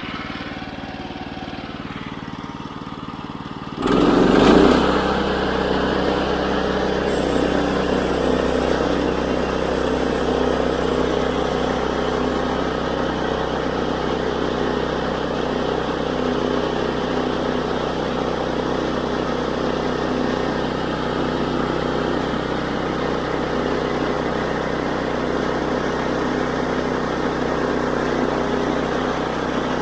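Woodland Mills HM122 band sawmill's 9.5 hp gas engine running at low speed, then throttled up sharply about four seconds in as the band blade is engaged. It then runs steadily under load as the blade cuts a slab from a walnut log.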